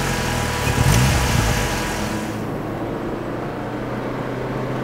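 Car engine revved by hand at the throttle linkage with the bonnet open: a couple of quick rev blips in the first second or so, then settling back to a steady run.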